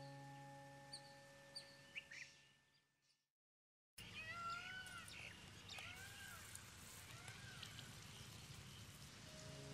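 Soft background music fades away into a moment of total silence. Then birds call in repeated short rising-and-falling chirps over a faint rushing ambience, and the music comes back near the end.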